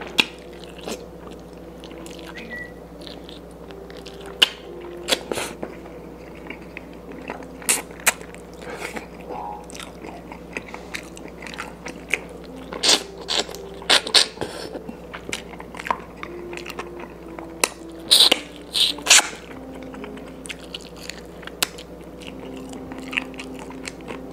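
A person chewing and biting into chicken adobo by hand, with irregular wet smacks and small crunches, louder in two flurries about halfway through and three-quarters of the way through.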